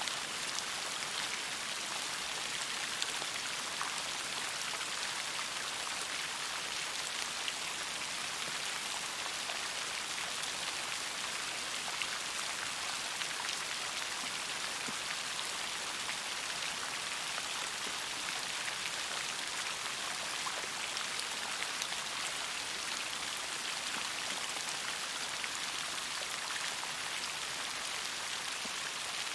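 Steady rain, an even hiss with many individual drops ticking sharply through it.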